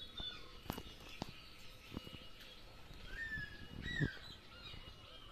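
Birds calling and chirping in the background, with two clear rising-and-falling whistled calls about three and four seconds in, and a few faint knocks.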